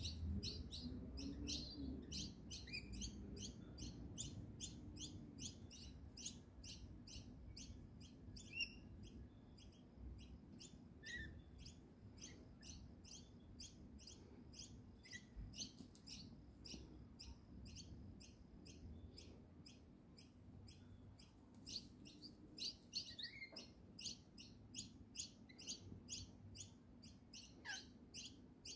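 Birds chirping in a quick, steady series of high chirps, about four a second, with a few short, lower descending calls mixed in.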